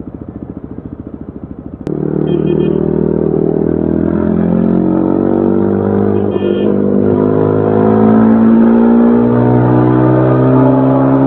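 2025 Yezdi Adventure's single-cylinder engine and exhaust, running with a fast, even pulse at low revs. About two seconds in it gets suddenly louder, and the engine note climbs steadily as the motorcycle accelerates under load, with a shift in tone near the end.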